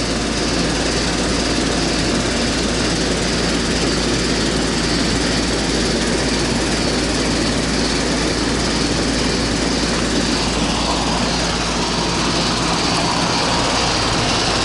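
Goodman central air conditioner's outdoor condensing unit running steadily, its compressor and condenser fan giving a constant whir over a low hum, after its frozen evaporator coil has been thawed out.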